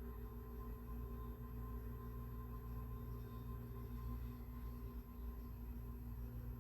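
Soft background music of steady, sustained tones with no strikes or changes, over a low room rumble.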